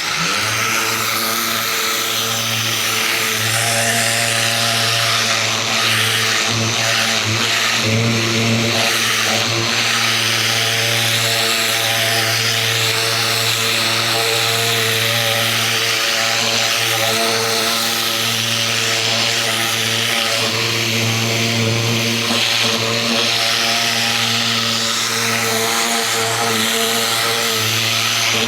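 Ryobi 2000 PSI electric pressure washer kicking on and running steadily, its motor and pump humming under the hiss of the high-pressure water jet striking the fence.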